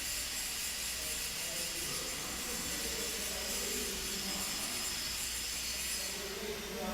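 Flour milling machinery running steadily: an even, continuous hiss over a low hum.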